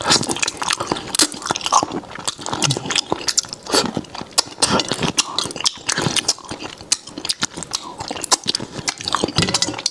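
A man biting and chewing a piece of braised food close to a clip-on microphone: irregular wet smacks, sucking and crisp crunching clicks.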